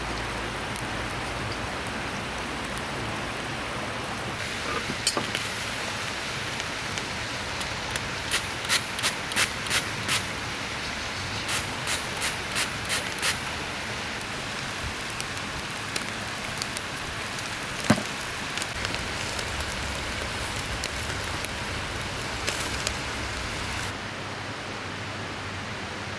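Steady rushing of a mountain river, with runs of short sharp clicks in the middle and a single sharp snap a little past halfway. The background changes abruptly near the end.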